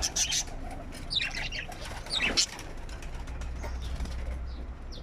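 A small parrot's wings flapping briefly at the start. Then two short bird calls, about one second and two seconds in, the second the louder.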